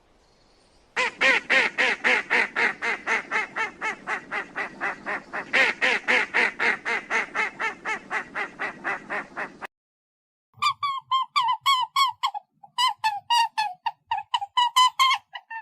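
Bird calling in a fast series of harsh repeated calls, about three to four a second. After a short break, a second series of shorter, higher-pitched calls follows.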